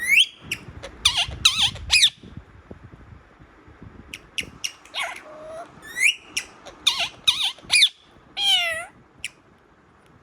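A parrot calling: clusters of short, sharp high calls and several longer calls that swoop up and down in pitch, with pauses between groups.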